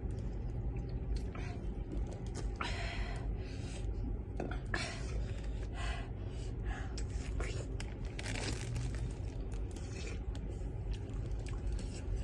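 Close-up eating sounds: chewing and crunching of food, with short rustles and scrapes scattered through, over a steady low hum.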